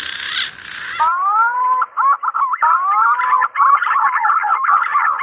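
Green pigeon (punai) whistling call: a run of clear rising and wavering whistles that break into fast fluttering notes, the call used as a bird-trapping lure. It opens with about a second of hiss-like noise.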